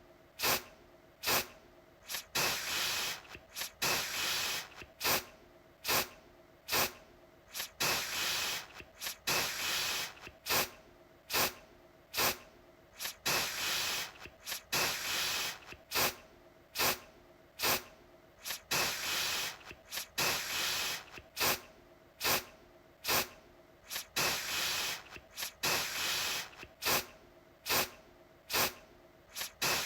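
Aerosol deodorant can sprayed in short hissing bursts, each starting sharply and lasting about a second, repeated over and over about every two seconds.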